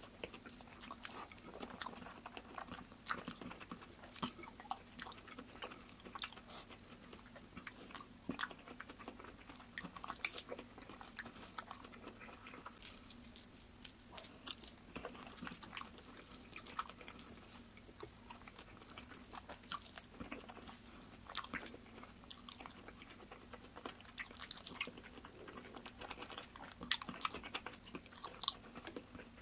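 Faint chewing and mouth sounds of a person eating rice and curry by hand. Small irregular clicks and squishes come from fingers mixing the food on a paper plate, over a faint steady low hum.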